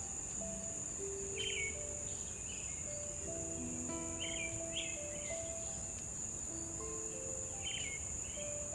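Insects, crickets or cicadas, shrilling steadily on one high pitch, with a bird chirping a few times. Soft background music with slow held notes plays under them.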